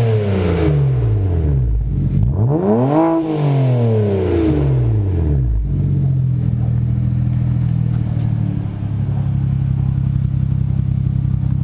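BMW 335i's 3.0-litre inline-six exhaling through a 3.5-inch stainless steel aftermarket exhaust. The engine is settling from one rev at the start, is revved up and back down once about three seconds in, then settles into a steady idle.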